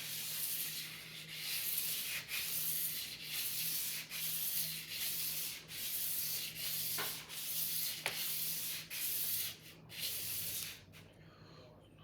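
A sword blade being sharpened: about a dozen even rubbing strokes, roughly one a second, that stop about a second before the end.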